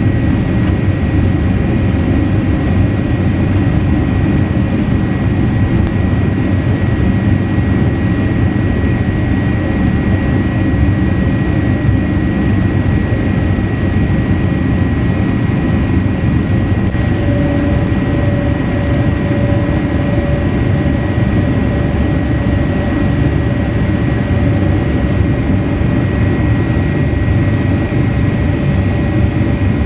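Steady jet engine and airflow noise inside the cabin of a Boeing 787-8 airliner, a deep even rumble with a faint steady whine above it.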